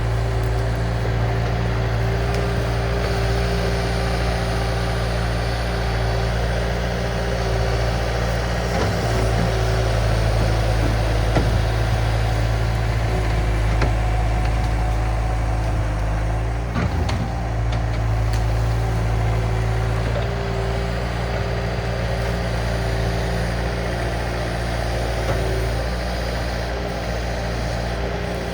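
Diesel engine of a compact earthmoving machine running steadily at working revs, with a few light knocks over the engine sound.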